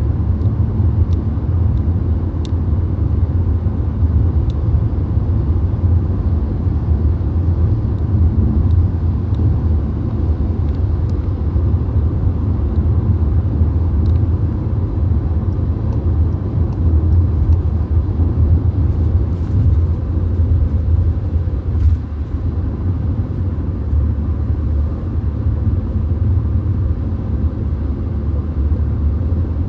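Cabin noise inside a VW Golf driving at motorway speed: a steady low rumble of road and engine noise.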